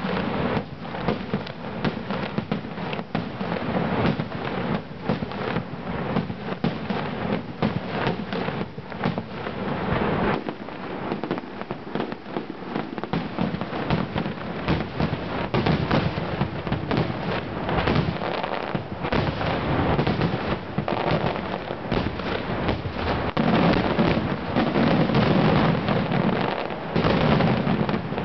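Aerial fireworks display: a dense, unbroken barrage of shell bursts and crackling stars, loudest a few seconds before the end.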